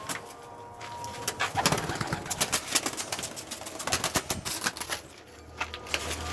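Domestic pigeons cooing, with a busy run of sharp clicks and taps that thins out after about five seconds.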